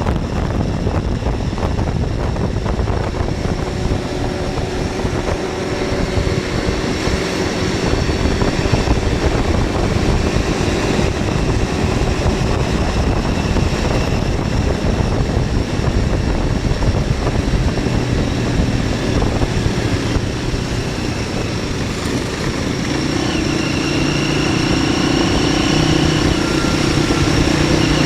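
MZ 125 SX single-cylinder engine running as the motorcycle rides along, heard with heavy rumbling wind noise. Near the end the engine note becomes steadier and clearer.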